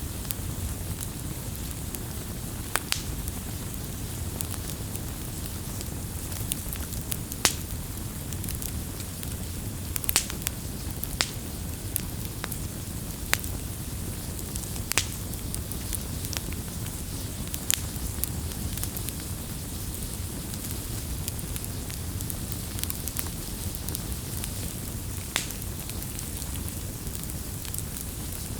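Wood fire burning: a steady low rumble and hiss of the flames with irregular sharp crackles and pops from the burning wood, a dozen or so louder ones scattered through.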